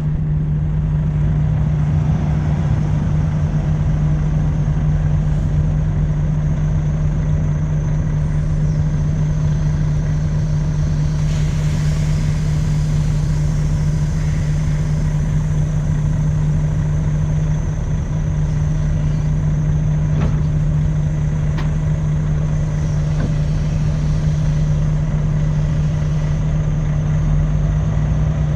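Volvo truck's diesel engine idling steadily with an even low hum.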